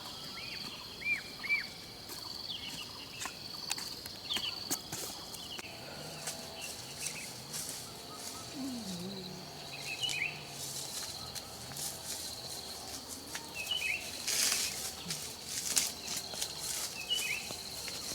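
Forest ambience: a steady high insect drone with birds chirping now and then, and a few sharp clicks.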